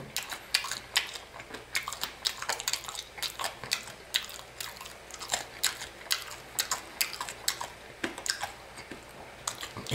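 Close-up chewing of fried chicken with a hard candied tanghulu sugar coating, mouth closed: irregular crunches and wet mouth clicks, several a second.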